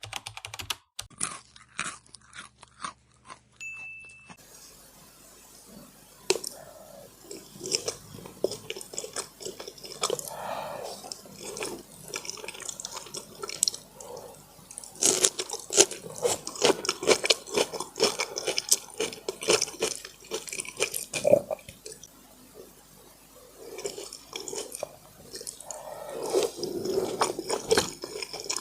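Chewing and mouth sounds of someone eating pork braised in brown sauce, with many small wet smacks and clicks, louder in two stretches in the middle and near the end. The first few seconds hold a separate run of clicks and a short high beep.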